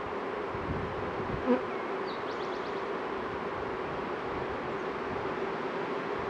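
Honeybees buzzing steadily around an open hive, with one brief knock about a second and a half in.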